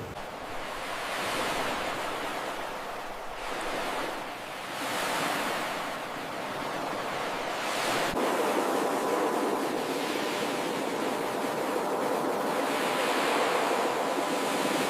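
Ocean surf breaking and washing up a beach, the rush of water swelling and easing every couple of seconds.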